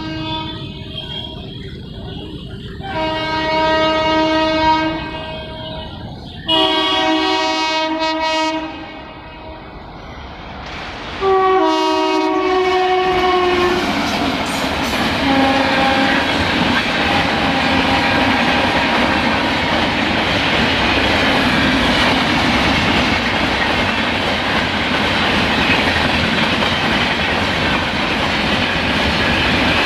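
A train horn sounds a faint blast, then three long, loud blasts of about two seconds each. The train then passes close by, its wheels clattering steadily over the rail joints.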